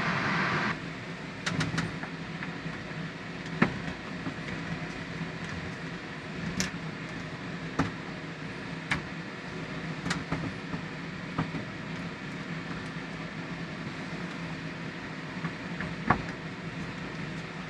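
Scattered small clicks and taps of a screw and a plastic shower-head mounting plate being handled against the shower wall while feeling for the old screw hole, over a steady low hum. A louder hiss stops abruptly about a second in.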